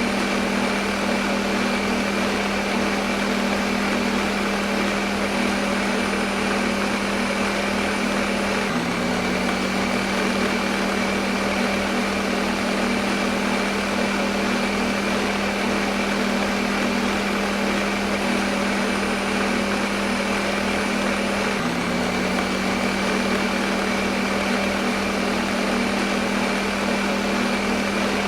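Electric kitchen blender running steadily, a constant motor hum with a high whine over an even rushing noise. The pitch dips briefly twice.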